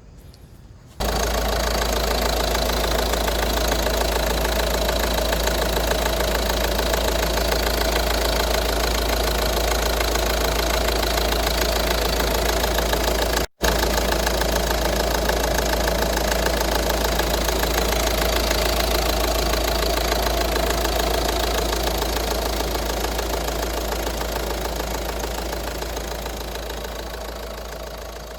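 Peugeot 508 engine idling steadily, running with the new accessory drive belt fitted. It comes in abruptly about a second in, cuts out for an instant about halfway through and fades toward the end.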